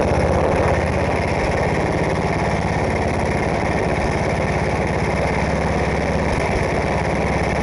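10 hp snowblower engine, just started on full choke after two primes, running steadily at a fast idle.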